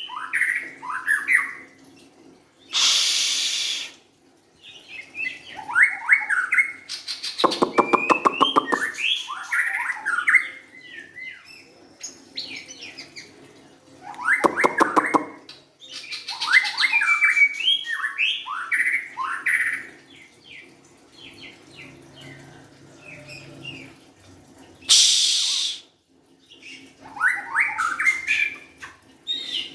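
White-rumped shama (murai batu) singing: rapid varied phrases of sweeping whistled notes, twice broken by a buzzy, rattling phrase. Two short, loud hissing bursts stand out, one a few seconds in and one near the end.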